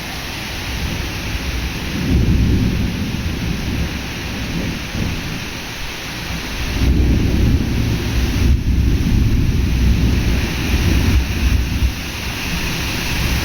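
Heavy rain falling steadily during a sudden summer thunderstorm. Thunder rumbles twice: a shorter roll about two seconds in, and a longer one starting about seven seconds in that lasts several seconds.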